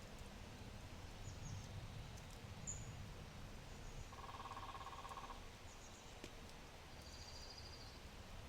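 Low oak fire in a brick fireplace crackling faintly, with a low steady rumble and a few scattered small pops. Birds call over it: a short rapid trill about four seconds in, high thin chirps, and a high-pitched trill near the end.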